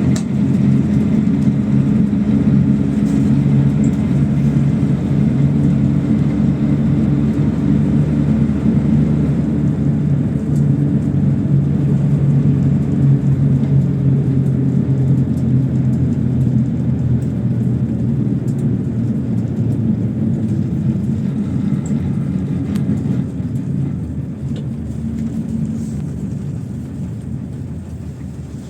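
PAZ-32054 bus engine and drivetrain running at a steady speed while the bus drives, heard from inside. The sound eases off over the last few seconds as the engine drops back.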